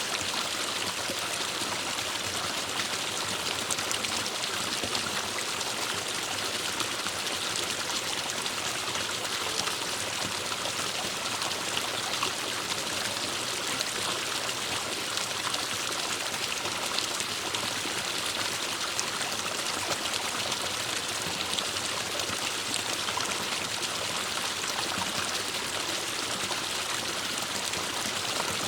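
Forest stream running over rocks: a steady, even rush of water with fine splashing and trickling.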